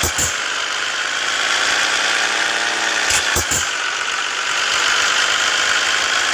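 Scania S 450 truck's diesel engine running steadily, its pitch rising and falling gently, with two short clicks about halfway through.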